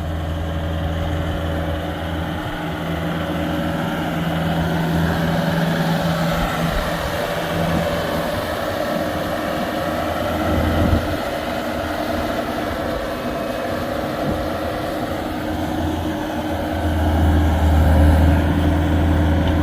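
Diesel engine running steadily at low speed, with a steady low hum; it briefly gets louder about halfway through and again near the end.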